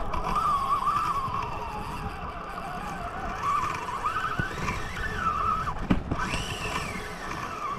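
Fishing reel's drag screaming as a big fish runs and strips line, a continuous wavering whine that climbs higher in pitch after the middle.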